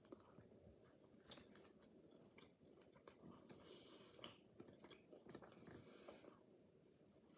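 Faint close chewing of a crookie, a croissant baked with a thin layer of cookie dough, with small crisp crackles from the flaky pastry.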